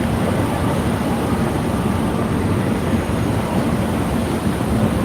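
Steady traffic rumble of passing vehicles, mixed with wind on the microphone.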